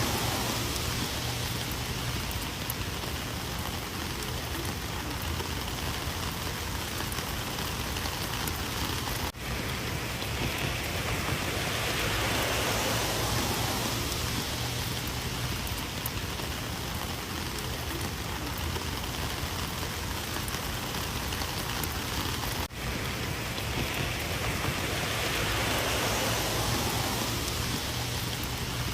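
Rain falling steadily: a constant hiss that slowly swells and eases, with two brief sudden dips in level about a third and three quarters of the way through.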